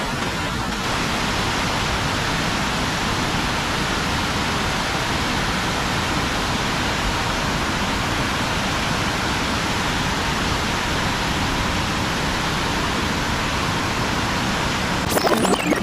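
Steady rush of floodwater pouring through a spillway, a loud even noise without any tone. A few sharp clicks come just before the end.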